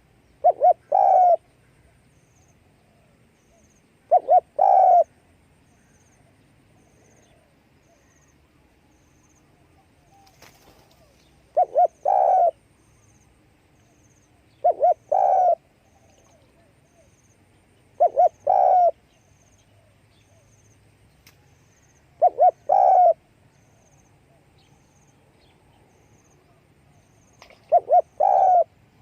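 Spotted dove cooing: seven calls, each two short quick notes followed by a longer one, repeated every few seconds.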